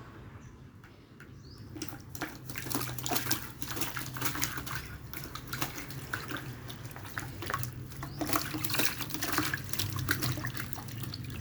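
Water splashing and dripping as a wild black-naped oriole is bathed and shaken in water, starting about two seconds in, over a low steady hum.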